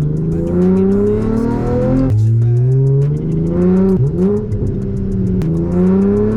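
Chevrolet Camaro engine accelerating hard through the gears: its note climbs steadily in pitch, then drops sharply at an upshift, twice.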